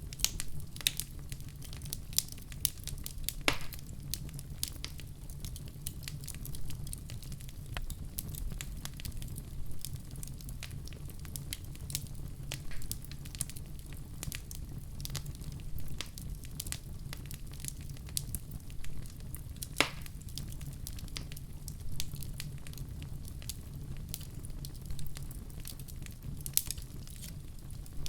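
Wood fire crackling and popping continuously over a steady low rumble of flames, with a few sharper pops, one about 20 seconds in.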